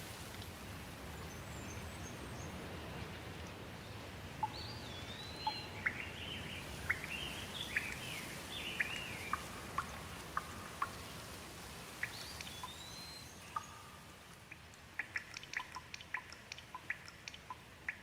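Wild birds calling, a series of short sliding whistles and chirps, over a steady hiss of background noise. Near the end comes a quick run of short sharp clicks.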